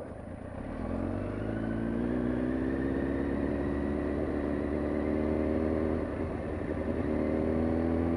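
Motorcycle engine pulling away and accelerating, its pitch rising over the first two seconds and then holding steady, with brief dips about six seconds in and near the end. The bike is being ridden with a snapped clutch cable, put into gear without the clutch.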